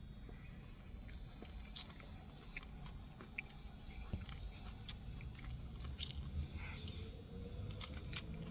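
Low steady rumble with many small scattered clicks and crackles, like close handling or mouth noises.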